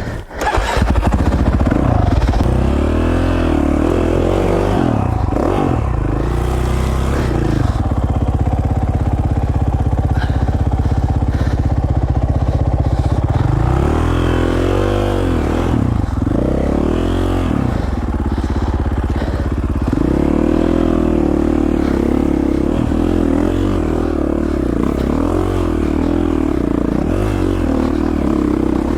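2017 KTM 450 XC-F's single-cylinder four-stroke engine running under load on trail, the revs rising and falling again and again with the throttle.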